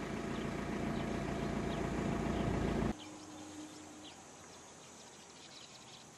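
A vehicle engine running with a low steady rumble, cut off abruptly about three seconds in. Then faint open-air ambience with scattered short bird chirps.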